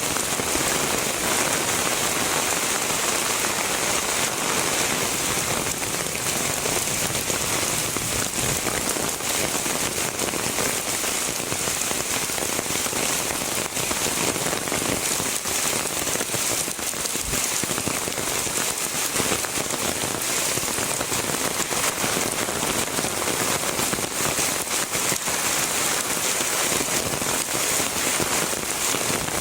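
Heavy rain falling steadily: a dense, even hiss of countless drops with fine pattering ticks.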